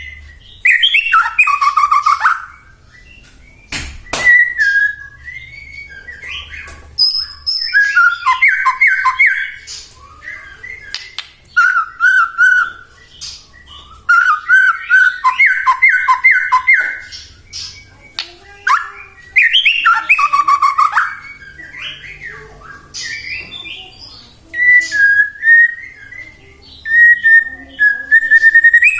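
White-rumped shama in full song: loud whistled phrases, fast runs of repeated notes, high trills and sharp clicks, in bursts of one to three seconds separated by short pauses.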